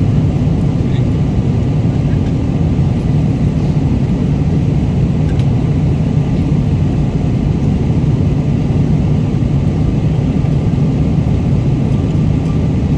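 Airliner cabin noise in flight: a steady, loud, low rumble of engines and airflow that does not change.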